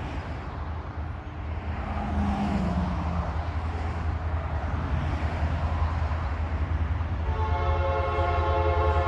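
Freight train diesel locomotives rumbling steadily as they approach. About seven seconds in, the lead locomotive's air horn starts blowing a steady chord.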